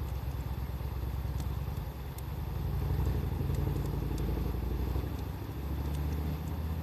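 Wood fire crackling with sparse small pops, under a louder low rumble that swells and eases, like an engine running nearby.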